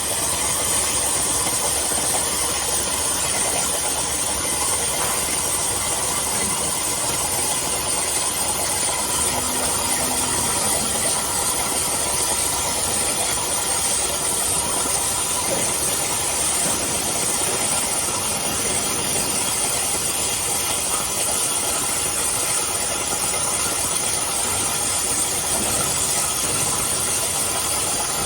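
CNC oxy-gas cutting torch cutting through thick steel plate: the oxygen jet and flame give a loud, steady hiss.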